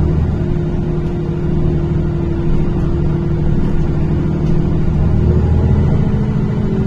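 NefAZ-5299 city bus under way, heard from inside the cabin: the engine runs steadily under light load with a constant low drone and hum.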